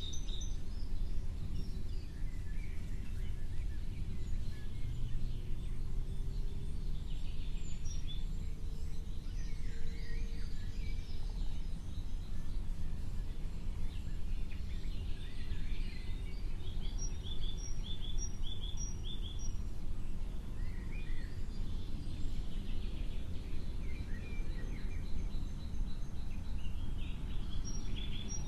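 Birds calling and chirping, with scattered short high notes and a run of about five quick repeated notes about two-thirds of the way through, over a steady low background rumble.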